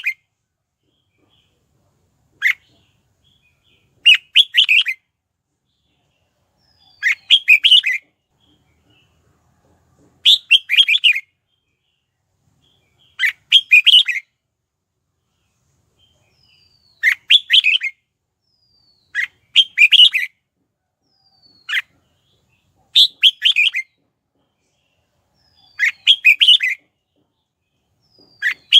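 Red-whiskered bulbul singing: short, bright chirpy song phrases of up to about a second each, about ten of them, repeated every two to three seconds with silence between.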